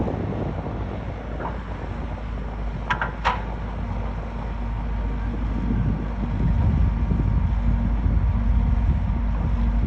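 Bulldozer's diesel engine running steadily under load, with a couple of short high squeaks about three seconds in.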